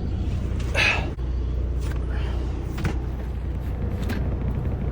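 Low steady hum of the semi truck idling, with a short rustle about a second in and a few light knocks as things are handled in the cab.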